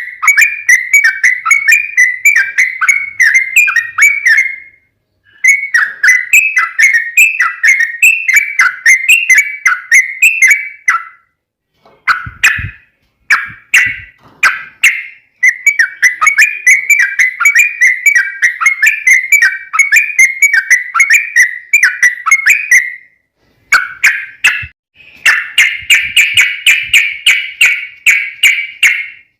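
Yellow-vented bulbul (trucukan) singing a long, rapid run of bubbly chirping notes in extended phrases broken by short pauses, turning into a denser, continuous warble near the end. Two brief knocks a little before halfway.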